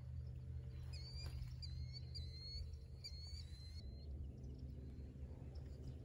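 Wild birds calling in quick, repeated high chirps, which stop about four seconds in, over a steady low rumble.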